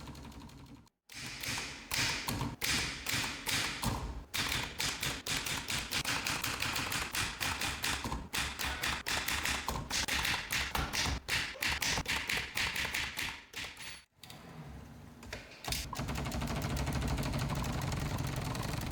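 Restored Olympia Splendid portable typewriter being typed on: rapid keystrokes with the typebars striking the platen, several a second, for about twelve seconds. A steady low rumble takes over near the end.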